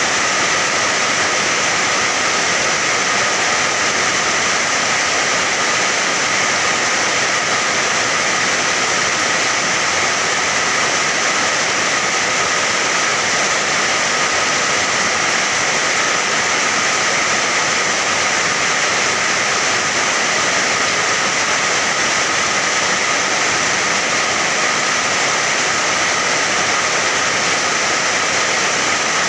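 Rain falling steadily: an even, unbroken hiss with no single drops, thunder or other events standing out.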